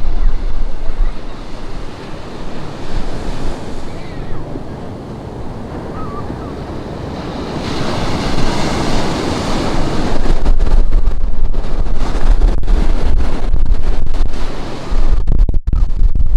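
Ocean surf breaking and washing on the beach, one wave swelling to a peak about eight seconds in. Wind buffets the microphone, a heavy low rumble underneath that returns strongly in the second half.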